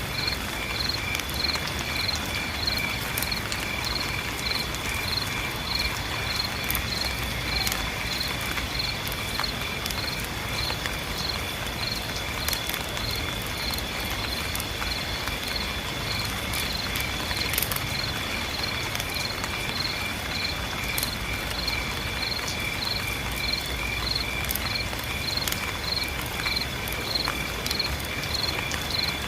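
Steady rain falling, with a high chirping call pulsing evenly about twice a second and a thin steady high whine above it.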